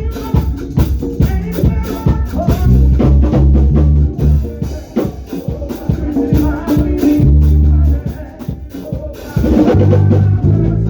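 Band music with no words: a drum kit beat of kick, snare and rimshot strikes over a bass line of held low notes. The music dips briefly a little past the middle, then comes back in fully.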